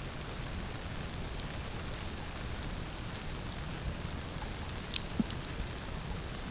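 Steady rain falling on a tarp shelter, with a few sharper single drops striking about five seconds in.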